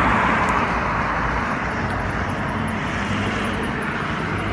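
Road traffic noise: a steady rush of passing vehicles, loudest at the start and easing slightly, over a low steady hum.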